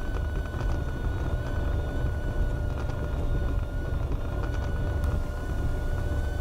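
Cessna 172R cabin noise on a landing: the four-cylinder Lycoming engine and propeller running with a steady low rumble, with two thin steady tones above it.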